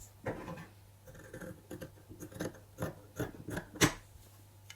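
Scissors cutting through thick fabric: a run of irregular snips and crunches with soft rustling of the cloth between, the sharpest snip a little before the end.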